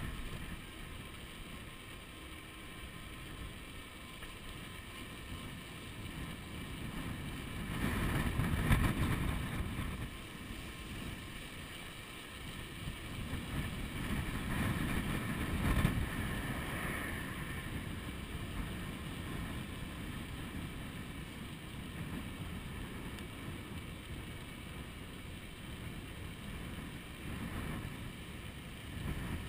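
Wind buffeting a chest-mounted GoPro's microphone on a moving electric bike, a low rumbling rush that surges in louder gusts about eight and fifteen seconds in.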